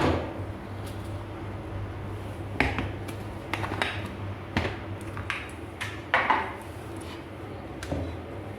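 Scattered clinks and knocks of kitchenware being handled, a blender jar and a bowl, as freshly blended cucumber juice is poured. A few of the clinks ring briefly.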